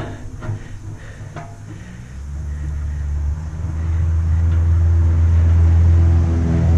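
Low, steady engine rumble of a motor vehicle that grows louder from about two seconds in.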